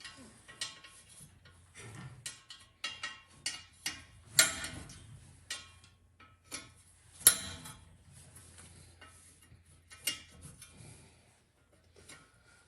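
Hand tools clicking and clinking against metal as the engine's fan is being unbolted: irregular small clicks, with sharper metallic strikes at about four and a half, seven and ten seconds in.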